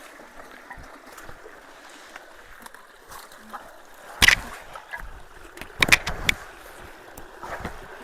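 Stream water rushing steadily through a culvert choked with rock and debris. A loud hit sounds about four seconds in, and a quick cluster of hits comes near six seconds, typical of rocks being moved in and around the water.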